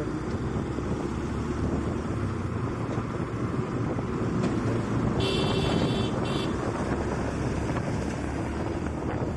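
Motorcycle running along the road while riding, with wind buffeting the microphone. A brief high-pitched tone sounds for about a second midway.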